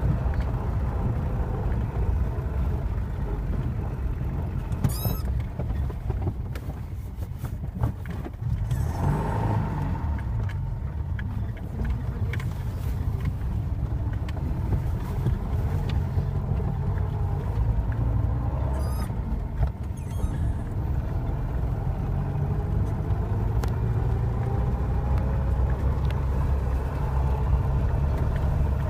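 Moskvich 2140's four-cylinder petrol engine running under load as the car drives through snow, a steady low drone. Its pitch rises slowly in the last few seconds, with a few light clicks and squeaks along the way.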